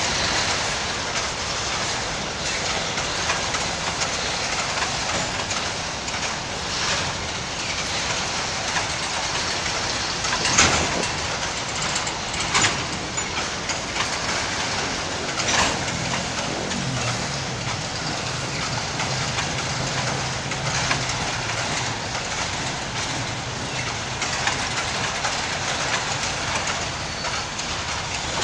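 Freight wagons of a long train rolling slowly past, wheels clicking over the rail joints over a steady rumble. A few sharp metallic clanks stand out, the loudest about a third of the way through.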